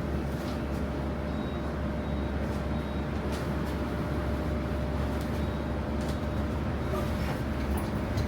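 A Transjakarta bus running: a steady low rumble with a faint steady whine above it and a few light clicks.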